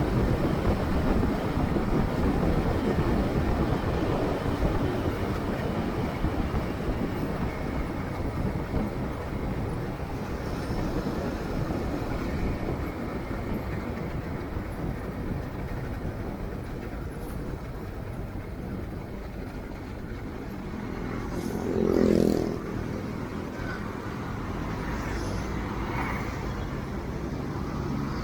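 Steady low rumble of motorcycle riding and traffic: engine and road noise, somewhat louder in the first third. About three quarters of the way through, a louder pitched sound swells and fades within about a second.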